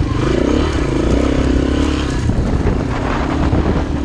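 Vehicle engine running under load as it is driven, the pitch wavering up and down with the throttle over a steady low rumble.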